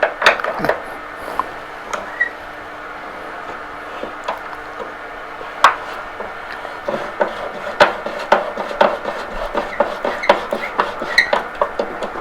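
Hand tools working on a commercial Toro mower's wheel assembly: scattered clicks, light metal clinks and rubbing, with one sharper knock near the middle and a busier run of clicks in the second half.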